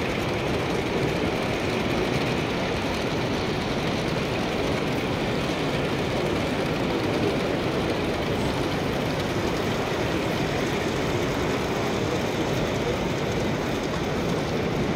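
Steady running noise inside a moving passenger train: an even rumble and rush that holds constant, with no distinct clicks or announcements.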